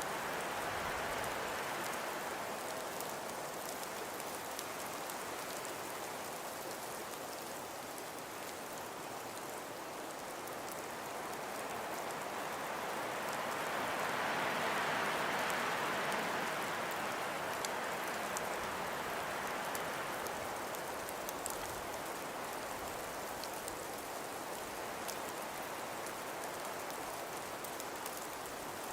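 Wind blowing through steady falling snow, with a fine scattered patter over the top; the wind swells to a gust about halfway through, then eases.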